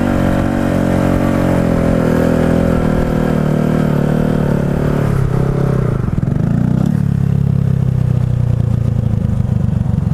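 Motorcycle engine running under throttle with a steady note, then dropping to a lower steady note about five seconds in as the bike slows.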